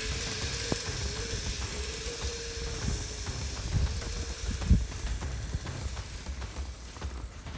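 Kyosho Blizzard RC snowcat's electric motor whining at a steady, slightly wavering pitch over the rumble and clatter of its 3D-printed tracks, fading toward the end as it drives away.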